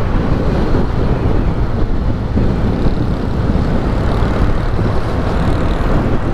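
Benelli 302S motorcycle's 300cc engine running steadily while the bike is ridden, mixed with wind rushing over the microphone.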